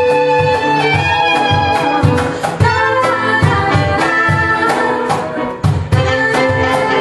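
A live band playing a song, with pitched melody instruments over a steady rhythmic beat.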